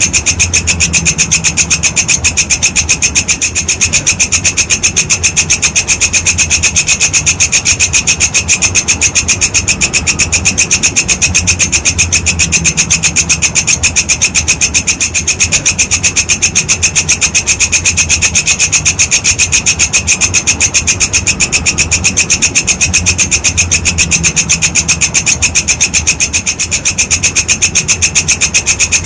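Walang kecek grasshopper calling continuously: a steady, high, rasping trill of rapid evenly spaced pulses that never breaks.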